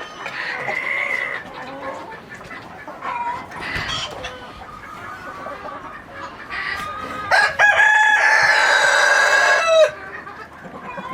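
Chickens clucking, then a rooster crows once about seven seconds in: one long, loud call lasting over two seconds that drops in pitch at the end.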